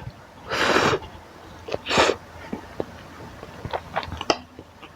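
Person eating spicy Maggi instant noodles close to the mic: loud airy slurps about half a second and two seconds in, then small wet clicks of chewing.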